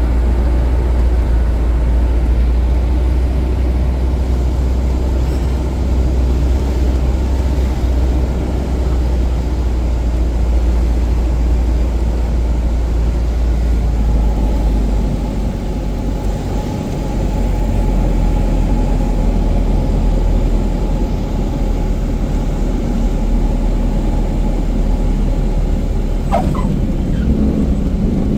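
Cessna 177 Cardinal's single piston engine and propeller running steadily in flight, a loud constant drone. A faint thin tone joins about halfway through, and a brief sliding tone comes near the end.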